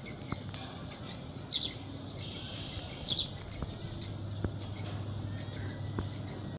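Birds calling: a thin, high whistled note that falls slightly, heard twice about four seconds apart, with a few short quick chirps in between.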